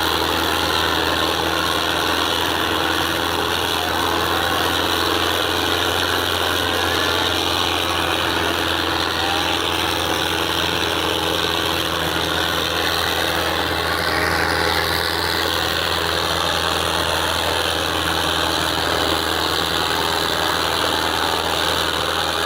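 Tractor diesel engine running steadily at a constant speed, with an even, unchanging hum.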